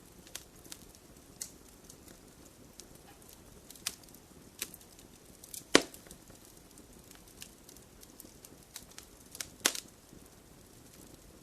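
Wood fire burning in a fireplace: scattered sharp crackles and pops over a low hiss, with two louder pops about six and ten seconds in.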